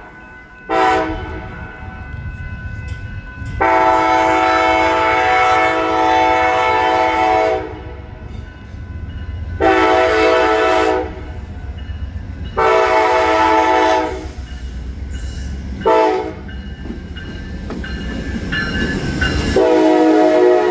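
The horn of an Amtrak GE P42DC diesel locomotive sounds a series of blasts: a brief toot about a second in, a long blast of about four seconds, two shorter long blasts, a quick short one, and another long blast starting near the end. Under the horn, the rumble of the arriving train builds up toward the end.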